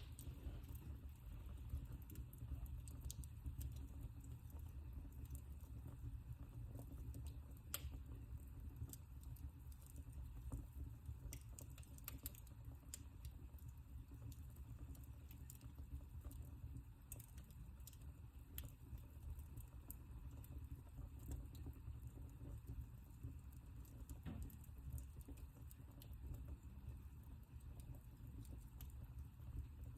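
Wood fire in a fireplace crackling quietly, with irregular small pops and snaps over a low steady rumble.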